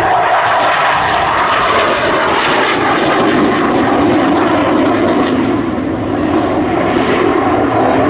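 Dassault Super Étendard jets' SNECMA Atar turbojets running loud and steady in flight, a continuous jet roar with a slight dip about six seconds in.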